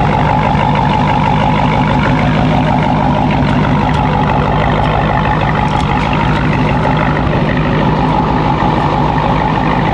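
Loud, steady vehicle engine noise with a constant hum and no change in pitch.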